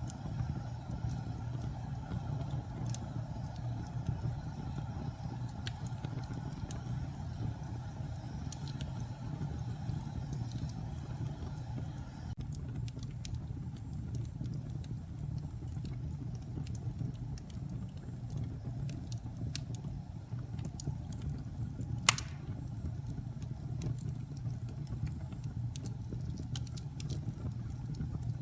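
Wood fire burning in a fireplace: a steady low rumble with scattered small crackles and one loud pop about three-quarters of the way through. A faint higher hum in the background stops about halfway.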